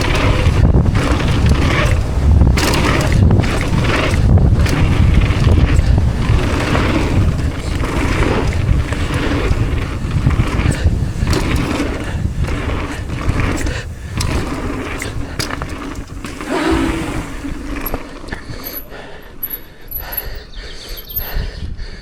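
Mountain bike ridden down a rough trail: heavy wind rush on the camera microphone with rapid clattering knocks from the bike, easing off near the end.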